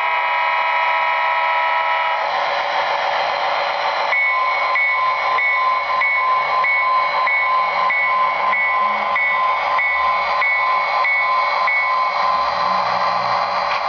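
HO-scale model of an EMD SD40T diesel with onboard sound, its diesel engine sound running steadily through a small speaker with no low rumble. A horn chord sounds until about two seconds in, then the locomotive bell rings from about four seconds to near the end, about one and a half strokes a second.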